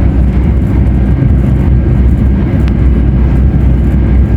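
Steady low rumble of a Gautrain high-speed commuter train running at speed, heard from inside the carriage.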